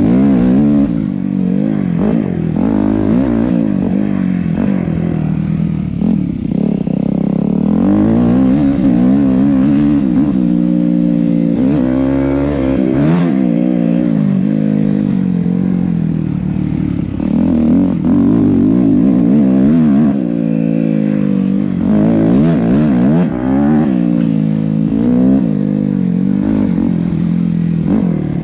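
Yamaha YZ250F four-stroke single-cylinder dirt bike engine under way, its pitch rising and falling again and again as the throttle is opened and closed.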